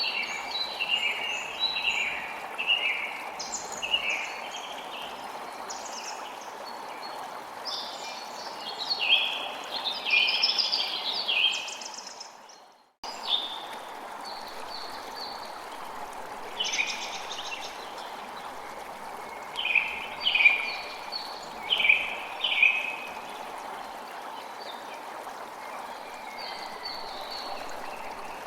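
Birds chirping and singing in short repeated phrases over the steady rush of flowing water. About halfway through, the sound fades out to silence and then cuts straight back in.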